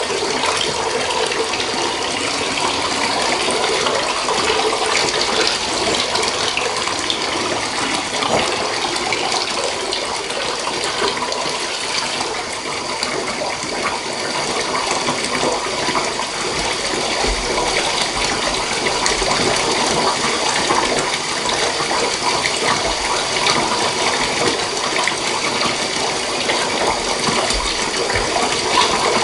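Water running steadily from a tap into a filling bathtub.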